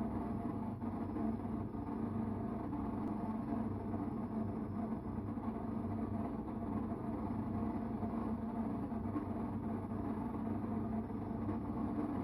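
Electrolux Time Manager front-load washing machine running with a loud, steady strange noise: a low hum over a fast, fluttering rumble. The owner guesses the noise comes from the drain pump.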